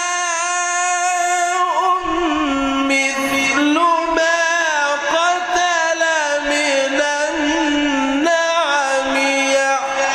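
Quran recitation chanted melodically by a man's voice, holding long ornamented notes that bend and glide in pitch, with short breaks between phrases.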